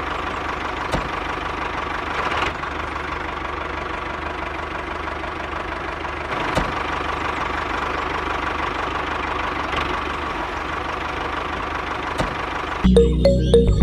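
Engine running steadily at idle. Music starts just before the end.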